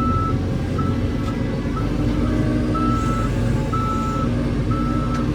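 A heavy vehicle's reversing alarm beeping at a steady single pitch about once a second, over a diesel engine running.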